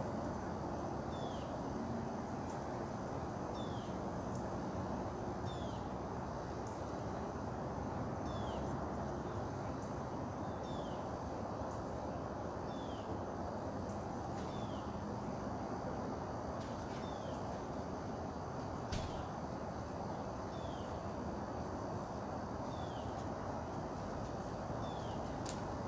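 Steady outdoor background rumble, like distant traffic, with a bird repeating a short, falling chip about once a second. Two sharp clicks sound, one partway through and one near the end.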